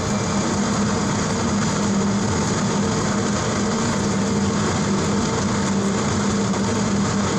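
A machine running steadily, with a constant low hum under a spread of noise.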